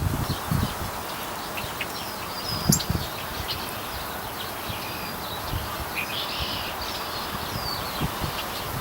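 Small birds chirping in short, scattered calls over a steady outdoor background hiss, with a single click a little under three seconds in.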